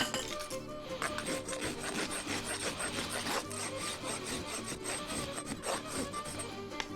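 Farrier's rasp filing a horse's hoof in repeated rough strokes, over background music.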